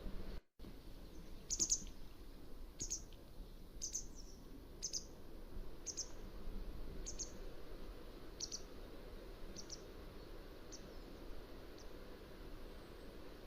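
Mountain wagtail calling: a series of about ten short, sharp, high-pitched calls roughly once a second, growing fainter toward the end, over a steady hiss. The audio drops out to silence for a moment about half a second in.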